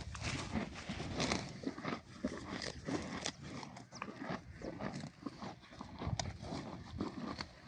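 Farm animal sounds, with many short, irregular clicks and rustles.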